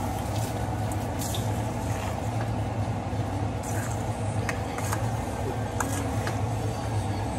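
Brinjal strips frying in masala in a steel wok, giving a few scattered crackles and pops over a steady low hum.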